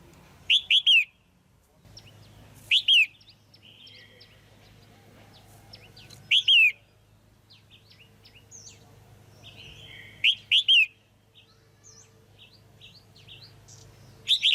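Female red-whiskered bulbul calling: short bursts of two or three quick, falling, whistled notes, repeated about every three to four seconds, with softer chirps in between.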